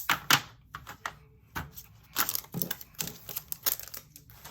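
Irregular clicks and short clatters of small plastic pieces: diamond painting resin drills and plastic storage containers being handled while drills are put away.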